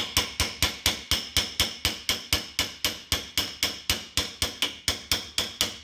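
Hammer tapping a drift punch in a quick, even rhythm, about three taps a second, each strike ringing metallically, driving a press-fit locating dowel out of a connecting rod's big end.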